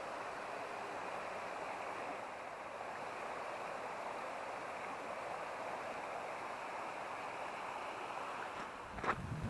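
Steady rushing of a river flowing over rocks. Near the end a couple of sharp knocks or steps break in.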